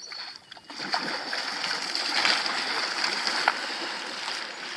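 Kayak paddles splashing through lake water, a steady wash of splashes that rises about a second in.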